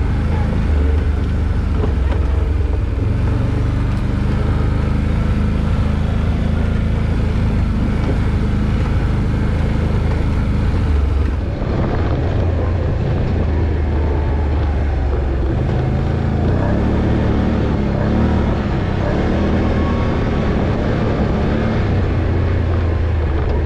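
Off-road vehicle's engine running at low speed on a rough trail, its note stepping up and down as the throttle is worked, with a brief dip about halfway through.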